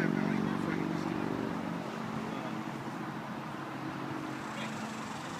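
A car engine running steadily, its sound fading away about two seconds in and leaving outdoor background noise.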